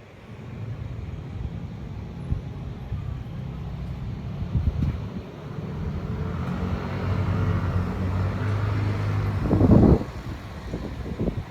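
A motor vehicle passing, its steady engine hum growing louder through the middle. Just before the end there is a brief, very loud rumble.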